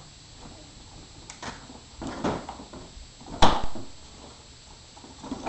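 A few scattered knocks and thumps of objects bumping, the loudest about three and a half seconds in.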